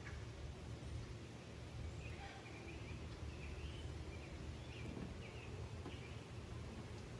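Faint outdoor ambience: a low steady rumble, with a small bird chirping several short notes through the middle.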